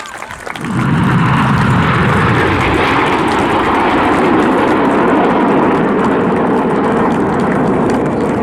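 A formation of BAE Hawk T1 jet trainers flying past, their jet engines heard as loud, steady jet noise. It comes in sharply less than a second in and holds at the same level.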